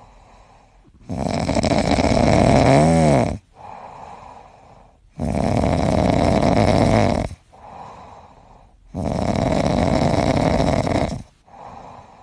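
Dog snoring loudly: three long rasping snores about four seconds apart, with softer breaths between them.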